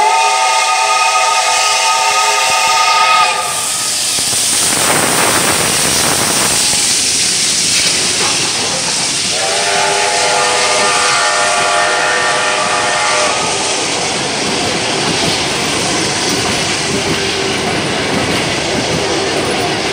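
A steam locomotive's whistle sounds twice: a chord of several pitches that slides up into tone, held about three seconds, then again for about four seconds some nine seconds in. Between and after the blasts the passenger coaches rumble and clatter loudly past the platform.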